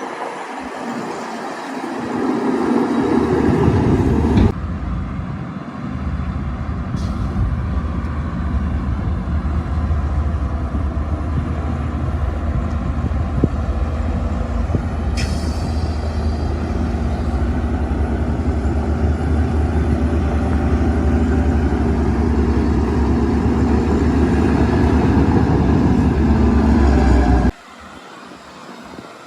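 Shantui DH17-C2 bulldozer's diesel engine running steadily under load with a deep rumble while pushing dirt. The sound changes abruptly about four seconds in, and drops away sharply near the end.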